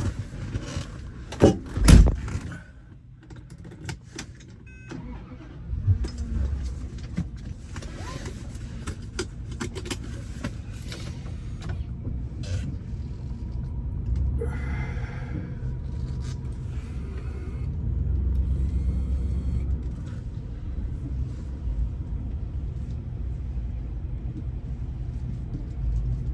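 A car's engine running with a steady low rumble that swells briefly about two-thirds of the way through. A heavy thump comes about two seconds in.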